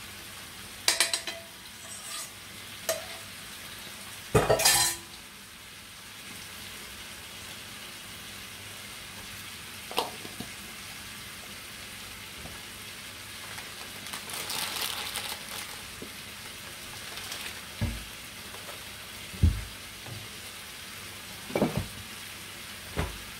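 Chicken and freshly added chopped tomatoes sizzling steadily in a frying pan. Near the start a bowl clatters against the pan as the tomatoes are tipped in, and single knocks of utensils follow now and then.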